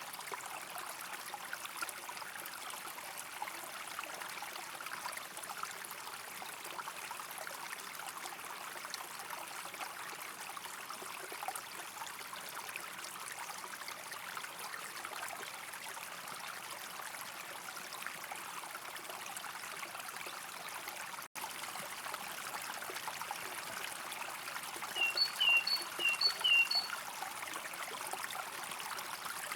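A small stream trickling and babbling steadily over stones. Near the end comes a quick run of short, high bird chirps, and the water sound drops out for an instant a little before that.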